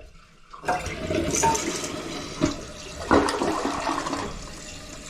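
Toilet flushing on a test flush after repair: the flush starts suddenly about half a second in, then water rushes from the tank into the bowl, surging loudest around the middle and easing off near the end.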